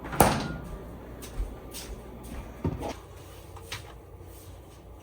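Kitchen handling sounds while coffee is made: a sharp knock just after the start, a softer knock about halfway through, and a few light clicks.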